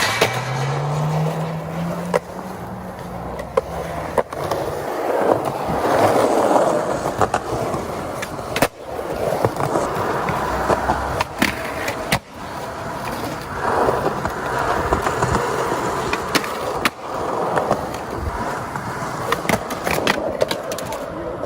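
Skateboard wheels rolling over pavement, the grinding noise swelling and fading as the board passes. Several sharp clacks of the board come at irregular moments.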